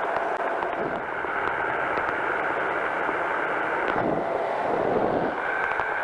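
Powered parachute's engine and pusher propeller running steadily in flight, mixed with wind noise on the microphone.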